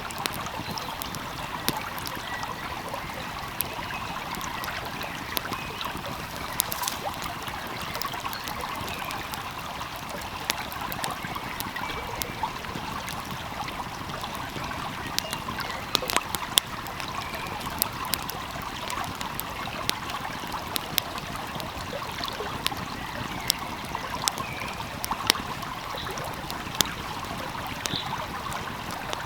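Steady rush of a flowing stream, with a wood fire crackling over it in irregular sharp pops, a few louder ones scattered through.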